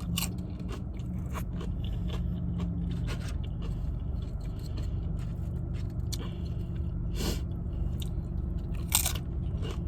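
Close-up eating sounds: chewing and crunching with scattered sharp clicks and scrapes, the loudest a little after 7 s and about 9 s in, over a steady low hum.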